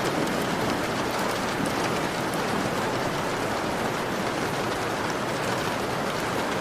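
Heavy rain falling steadily and densely on a window, with scattered individual drop ticks.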